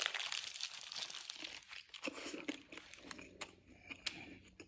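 Food packaging being handled, crinkling and rustling in short, irregular crackles.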